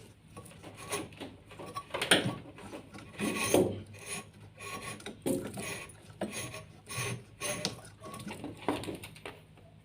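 Irregular scraping and rubbing strokes, about one or two a second, as washing machine parts are worked on during reassembly.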